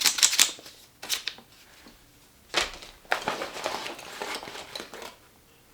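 Art supplies being handled and unpacked: packaging crinkling and rustling, with a few short sharp clicks and a longer stretch of rustling past the middle.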